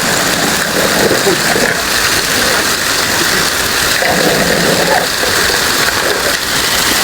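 Heavy rain falling, a loud, steady hiss of rain on surfaces.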